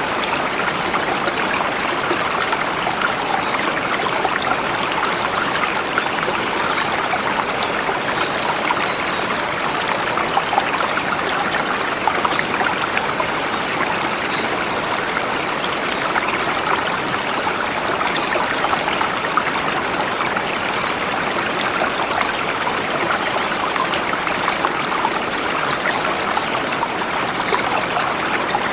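Forest river flowing over rocks: a steady rush of water with fine splashing and trickling throughout.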